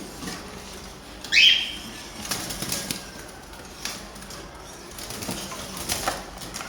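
A pet parrot gives one short, loud, harsh call about a second and a half in, with wing flapping and a few light taps and rustles after it.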